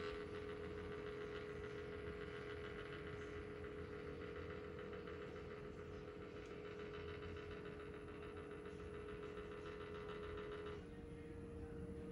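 IRIS Ohyama PCF-SDC15T circulator fan running with a steady hum, overlaid with a high whine from its horizontal oscillation (swivel) mechanism: the abnormal noise of a faulty swivel axis. The whine cuts off suddenly about eleven seconds in while the hum goes on.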